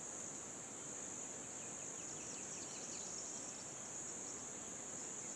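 Steady high-pitched trilling of an insect chorus, crickets or similar, with a faint run of short chirps partway through.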